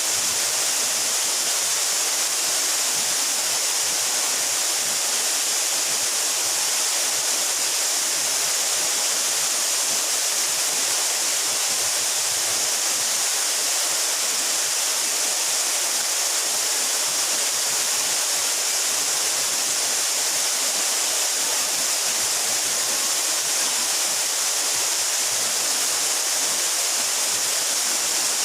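Waterfall about 12 metres high, its water falling with a steady, unchanging rush and hiss.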